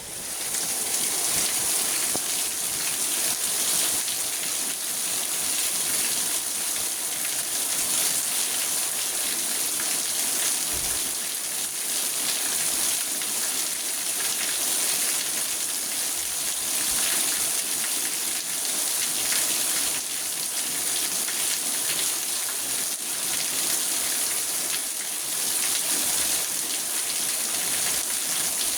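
Rain falling steadily on a car's roof and windows, heard from inside the car as a dense, even patter. It comes up sharply right at the start and then holds steady.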